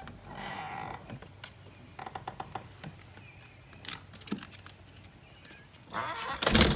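Dogs being let out through a door: scattered sharp clicks and taps, with a quick run of clicks about two seconds in and a louder rushing scrape near the end.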